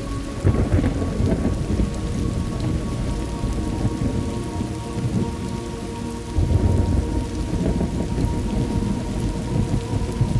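Thunderstorm ambience: steady rain with low rolling thunder, one rumble swelling about half a second in and a louder one at about six and a half seconds.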